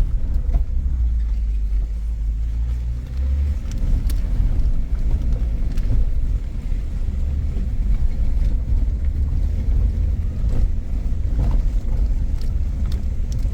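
Suzuki Jimny driving slowly over a rough, rocky off-road track: a steady low engine and drivetrain rumble, with a few light knocks scattered through it.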